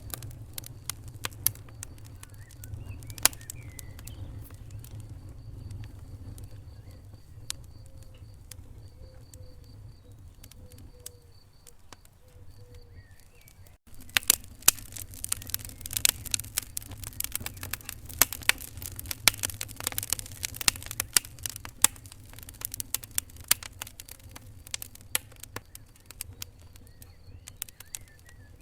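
Wood fire crackling in a fireplace: irregular sharp pops and snaps over a low rumble of the flames. About halfway through there is a sudden break, after which the crackling comes thicker and louder.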